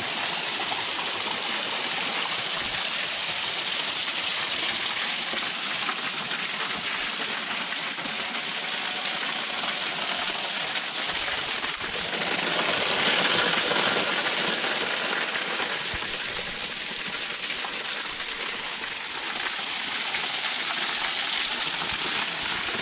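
Small waterfall pouring and splashing into a rock pool: a steady rush of falling water, its tone shifting briefly about halfway through.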